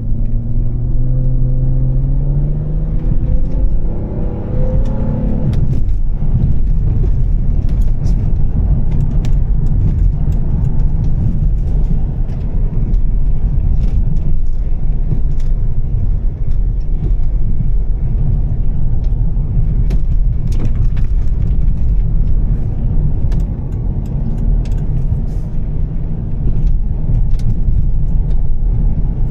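Volvo S60 T6's turbocharged straight-six with Heico exhaust pulling under acceleration, its note rising for about five seconds before dropping away. It then settles into a steady low rumble of engine and road noise, with scattered light ticks of rain throughout.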